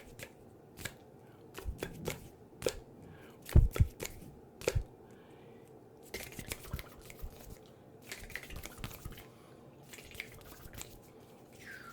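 Brushing and tapping on a microphone close up: scattered sharp clicks, a few heavier thumps around four seconds in, and short brushing swishes between about six and nine seconds.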